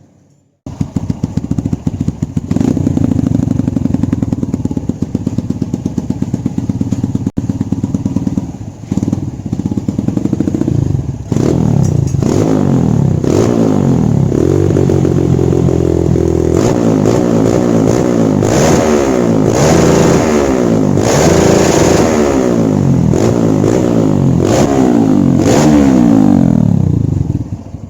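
A Kawasaki KLX trail bike's single-cylinder four-stroke engine, breathing through an aluminium aftermarket racing exhaust, runs at a steady idle. From about eleven seconds in it is blipped again and again, its pitch climbing and falling back with each rev, and it stops near the end.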